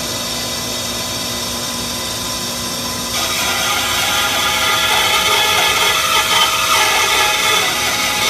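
Rikon 10-305 10-inch bandsaw running steadily. About three seconds in, its blade starts cutting through a 3.5-inch-thick block of pine, and the sound gets louder and rougher through the cut.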